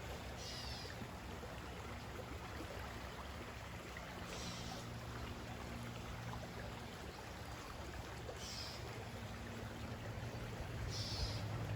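A small river flowing over rocks, a steady rushing of water, with a low steady hum beneath it. Four brief high-pitched sounds come over it, spaced about four seconds apart.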